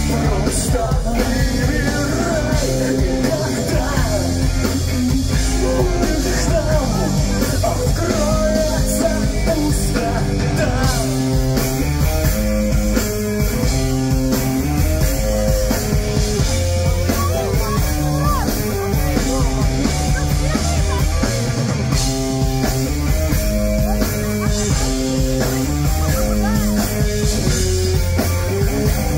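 Pop-punk band playing live at full volume: electric guitars, bass and drum kit in a steady repeating riff.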